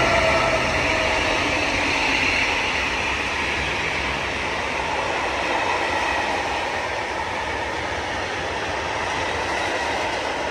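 A train running past on the rails, loudest at the start and easing off gradually, with a whine that fades in the first couple of seconds.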